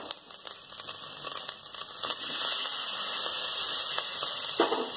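Onions, chillies and spice paste frying in hot oil, sizzling, the sizzle growing louder about two seconds in as chopped tomatoes go into the pot.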